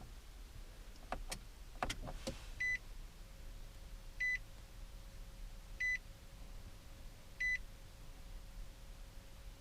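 Several sharp clicks from the Titan XD's push-button start being pressed, then a dashboard chime beeping four times, evenly, about every second and a half, with a faint steady hum in the background. The ignition is on with the engine off while the Cummins 5.0 diesel's glow plugs are cycled before a cold start.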